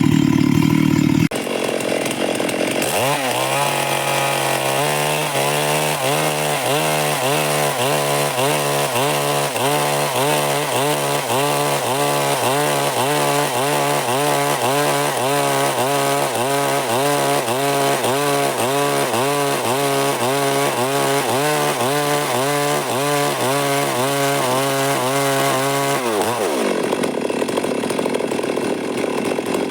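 Stihl MS382 two-stroke chainsaw revving up and running under load as it cuts through a big log, its pitch rising and falling about twice a second, then dropping back as the throttle is let off near the end. A loud engine note cuts off about a second in.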